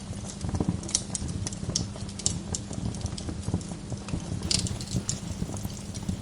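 Wood fire in a fireplace crackling: irregular sharp pops and snaps over a steady low rumble of the flames, with a louder crackle about four and a half seconds in.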